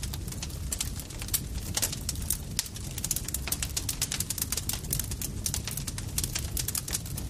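Campfire crackling, with many sharp pops and snaps of burning wood, several a second, over a steady low rumble of the flames.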